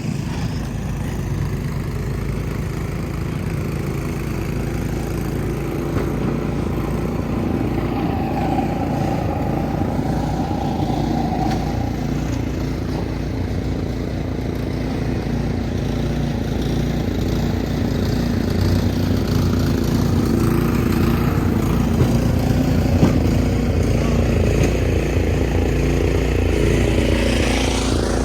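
An engine running close by, steady with a low pitched hum, getting a little louder in the second half, with a rising whoosh near the end.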